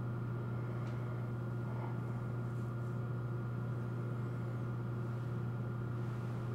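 A steady low hum with a faint higher whine above it, unchanging throughout.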